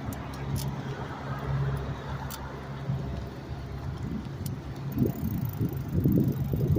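A steady low hum, then wind rumbling on the microphone that sets in about five seconds in and grows louder, as on a moving bicycle.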